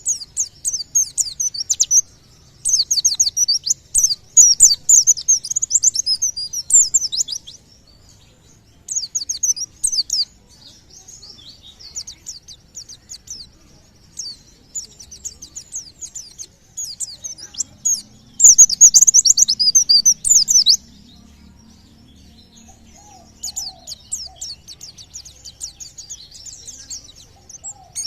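Pleci (white-eye) singing in rapid, high chirping bursts, the fast 'tembakan' volleys that keepers prize. The song comes in bouts separated by short pauses, the loudest bout about two-thirds of the way through.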